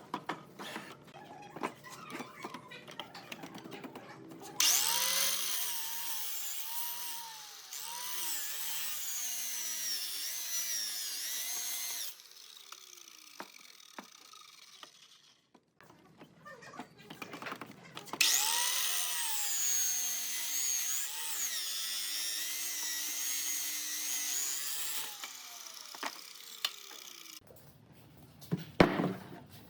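A power tool working wood, run in two spells of about seven seconds each. Its motor pitch wavers up and down as it bites into the wood. Light knocks and handling sounds come between the spells, and two sharp knocks near the end.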